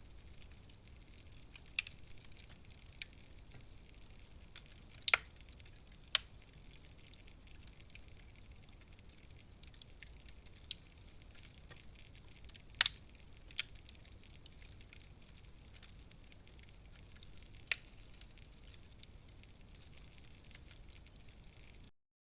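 Wood fire crackling: scattered sharp pops and snaps, a few of them louder, over a faint steady hiss. The sound cuts off abruptly near the end.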